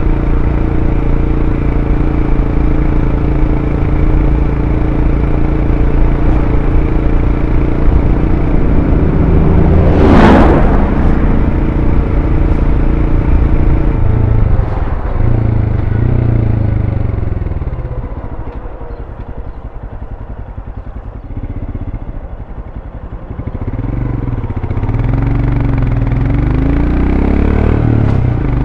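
Royal Enfield Scram 411's single-cylinder engine through its stock exhaust, running at a steady cruise, with a brief sharp rush of noise about ten seconds in. About halfway through the revs fall away and it runs quieter for several seconds as the bike slows, then the revs climb and dip again as it picks up speed near the end.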